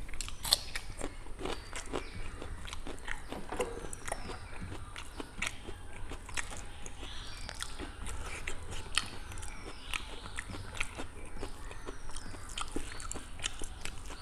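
Close-miked eating with the mouth: chewing a mouthful of rice with black pork and jute leaf curry, with many short wet smacks and clicks. Fingers squelch now and then while mixing rice on a banana leaf.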